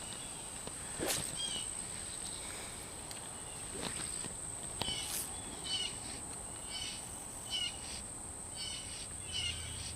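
Steady high-pitched insect trilling, cricket-like, with a bird calling over it in short repeated phrases about once a second from halfway in, and a few sharp clicks.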